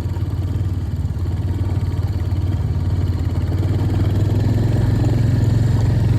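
Royal Enfield Hunter 350's single-cylinder engine running steadily as the motorcycle is ridden, getting a little louder in the second half.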